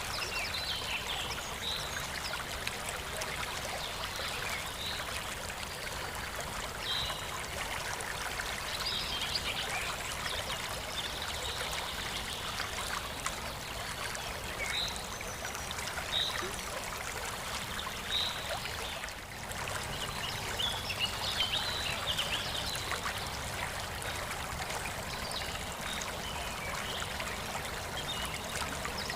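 Steady trickling, running water, with short high blips every second or two.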